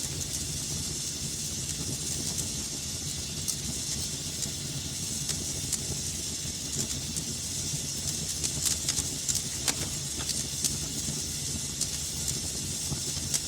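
Wood fire burning in a fireplace: a steady low rumble and hiss with frequent sharp crackles and pops, a denser cluster of pops about two-thirds of the way through.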